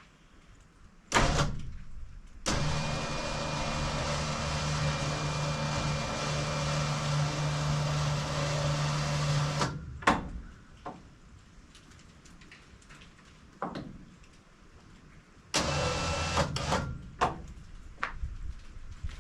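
A small electric motor runs with a steady hum for about seven seconds and stops abruptly, then runs again briefly near the end. There are scattered knocks and clatter in between, and a sharp knock about a second in.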